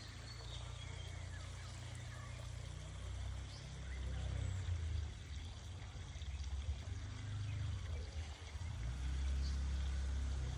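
Outdoor morning ambience: a low, uneven rumble that swells louder from about four seconds in, with faint bird chirps above it.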